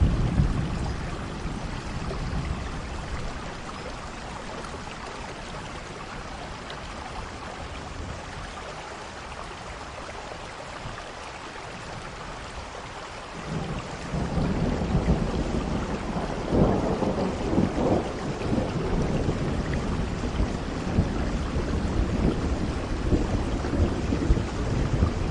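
Steady rain with rolling thunder. A rumble fades over the first few seconds, and about thirteen seconds in a louder rumble builds, peaking a few seconds later and rolling on to the end.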